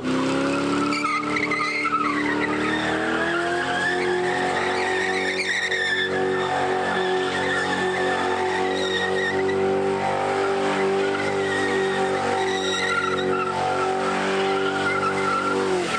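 A car doing a burnout: the engine climbs over the first few seconds and then holds at steady high revs while the tires squeal, and the revs drop off right at the end.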